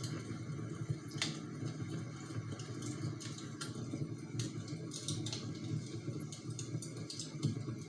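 Wood fire crackling: irregular faint pops and snaps over a low steady rumble.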